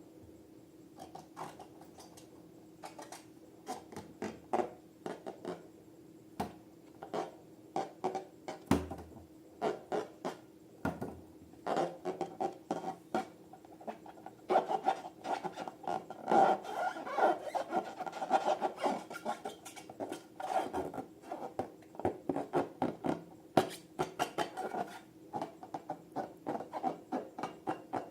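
Slime being squished and kneaded by hand: a stream of small sticky clicks and pops, sparse at first and growing denser and louder about halfway through.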